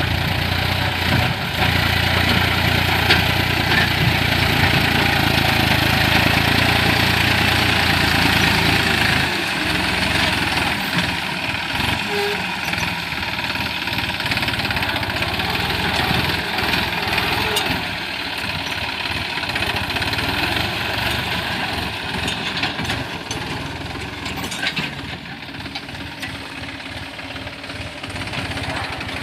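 Diesel engine of a New Holland 49 hp, 2700 cc farm tractor running steadily while pulling a six-disc plough. Its low engine note drops out about nine seconds in, and the sound grows fainter toward the end.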